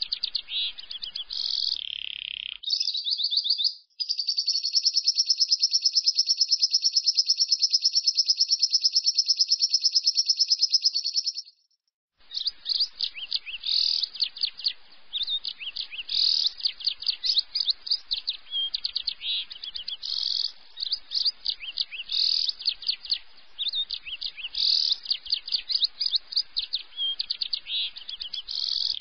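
Lovebird ngekek: a few chirps, then one long unbroken rapid high trill lasting about seven seconds. After a brief gap it goes on in fast, repeated chattering bursts.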